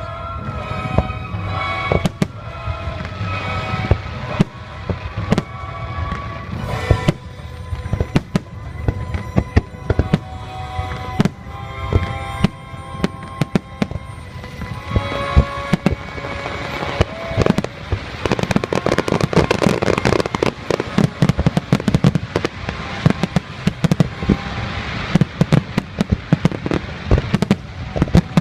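Fireworks bursting in quick succession over music from a sound system; about halfway through the bangs thicken into a dense run of rapid crackles and the music fades under them.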